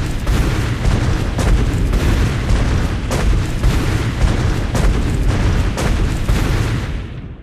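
Explosion sound effect: a long, loud rumbling boom peppered with sharp crackling pops, starting abruptly and dying away near the end.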